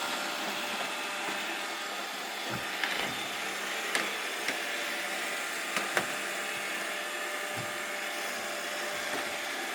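Robot vacuum cleaner running with a steady whir, with a few short knocks scattered through it.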